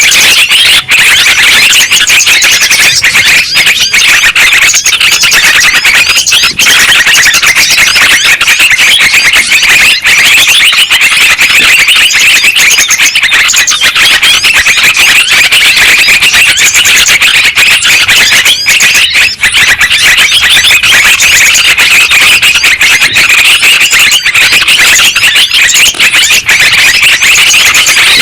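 Yellow-vented bulbuls (trucukan) calling in a loud, unbroken chorus of many overlapping bubbly chirps. It is a bird-lure recording meant to set other bulbuls singing.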